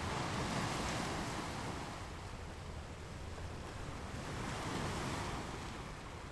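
Ocean surf washing onto a sandy beach, swelling twice as waves break and run up, with wind rumbling on the microphone.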